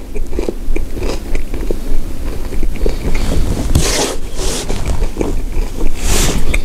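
Close-up chewing of a bite of frozen ice cream drumstick with a crunchy coating, with irregular crunching and wet mouth clicks. Two short hissy noises come about four and six seconds in.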